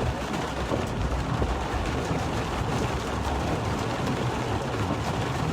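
Heavy rain falling on a moving car, a steady noise over the low rumble of the car and its tyres on the wet road, heard from inside the cabin.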